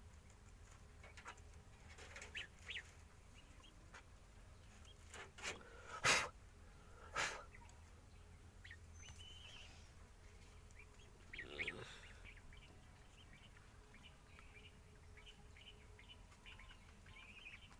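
Domestic geese giving scattered short calls and honks, faint, with a few louder ones about six, seven and eleven seconds in.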